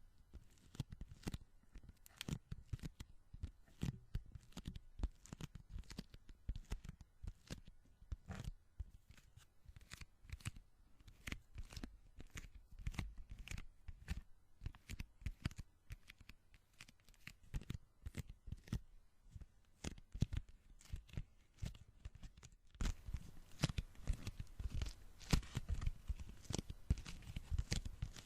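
Sticky palms and fingers pressed together and peeled apart, making a quick, uneven run of small crackling, tearing pops. Near the end the peeling gets denser and fuller.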